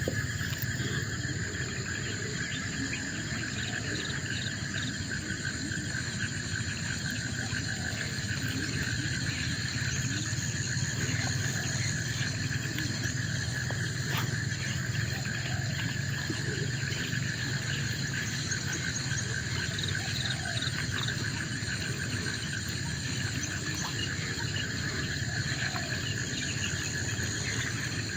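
Forest insect chorus: several insects trilling continuously at different pitches, a steady high buzzing, over a low steady hum.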